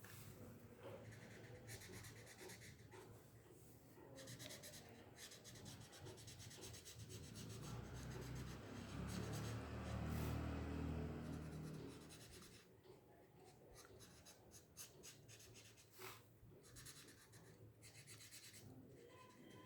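Marker tip scratching on paper in quick repeated colouring strokes, filling in a large area. A louder low rumble sits under the strokes for a few seconds around the middle.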